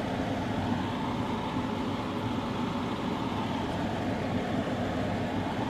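Steady hiss with a low, even hum underneath.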